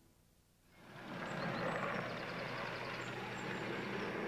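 A stretch limousine's engine running, fading in about a second in after a brief silence and then holding steady, with faint short high chirps above it.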